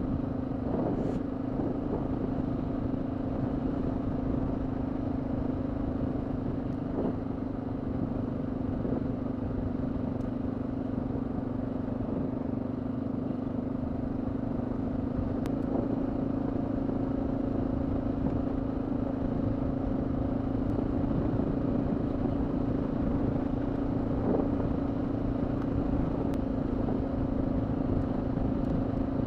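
Honda XR650L's single-cylinder four-stroke engine running at a steady speed while riding, holding one even pitch, over a low road rumble.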